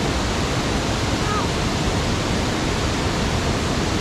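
Creek water rushing steadily over rocks, a continuous even hiss.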